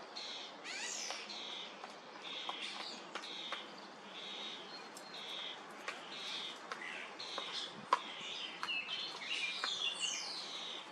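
European starlings calling: a run of short, scratchy calls about two a second, with a falling whistle about a second in and another near the end, and scattered sharp ticks.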